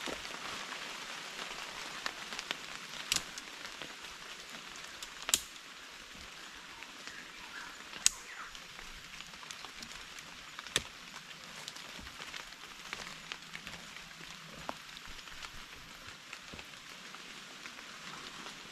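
Steady rain hissing, with a few sharp taps of heavier drops striking a surface, four of them standing out.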